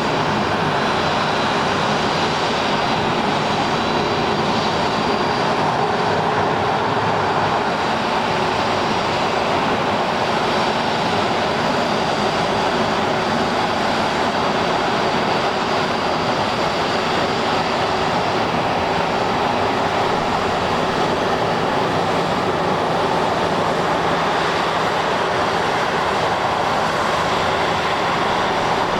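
CFM56 turbofan engines of a Boeing 737-500 running, a steady loud jet noise with a faint high whine that fades over the first several seconds.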